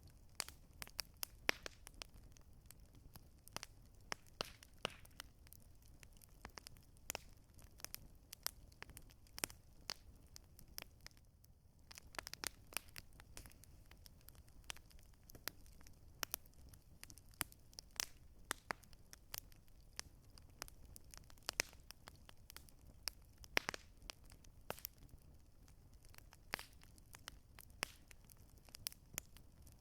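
Campfire crackling: irregular sharp pops and snaps of burning wood, several a second, over a low steady rumble, with a brief lull about eleven seconds in.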